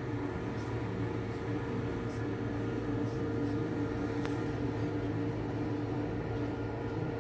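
Combine harvester running steadily at work in a wheat field: an even mechanical drone with a constant engine hum.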